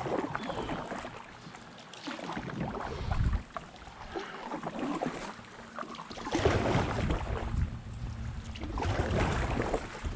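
Kayak paddle strokes splashing and sloshing in the river in irregular swells, with wind rumbling on the microphone.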